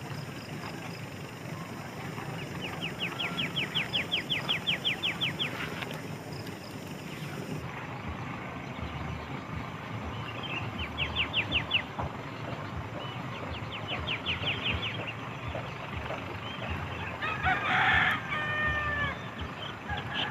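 A rooster crows once near the end. Earlier, three quick high trills of rapid clicks, each lasting a second or three, sound over a steady outdoor hum.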